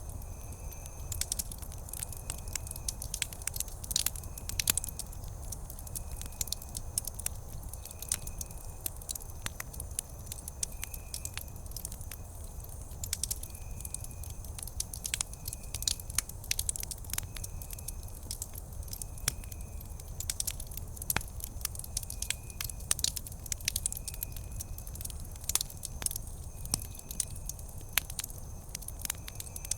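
Campfire wood burning with constant irregular crackles and pops over a low steady rumble. A faint short chirp repeats about once a second in the background.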